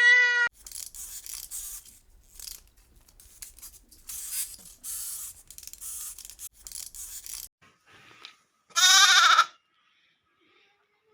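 A single loud, wavering bleat about nine seconds in, after several seconds of scratchy rustling bursts. A pitched animal call trails off in the first half second.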